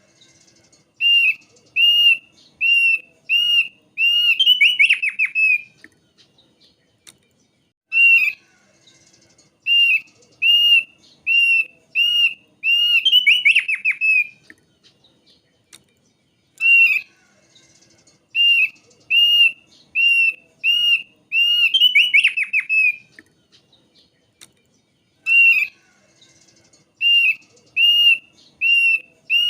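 Thick-billed white-eye song: a run of six or seven clear, arched whistled notes followed by a quick, falling trill. The whole phrase repeats about every eight and a half seconds, three times and starting a fourth.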